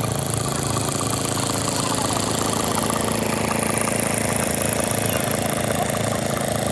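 An engine idling steadily, with an even, rapid beat.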